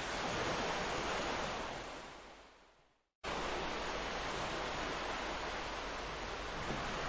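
Ocean surf washing steadily on a beach. It fades out to silence about three seconds in, then cuts sharply back in at full level, an edit join in the recording.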